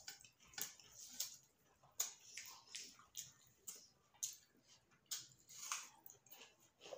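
Faint eating sounds of people eating rice and chicken curry with their hands: chewing and wet mouth smacks, heard as an irregular run of short clicks.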